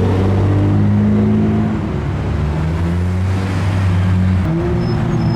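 Car engine running close by with a low, steady note that shifts in pitch slightly, changing about four and a half seconds in as cars pull out.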